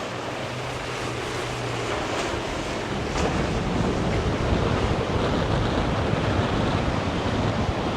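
Wind buffeting the microphone over the wash of waves and surf in the inlet. A passing boat's low engine drone is heard steadily for the first two seconds, then drops out.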